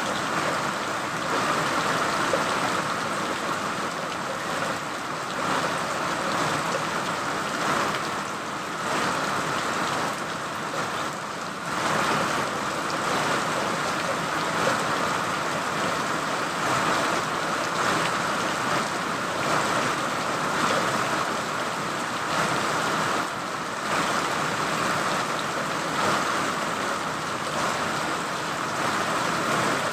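Steady rain falling, an even hiss that swells and eases slightly.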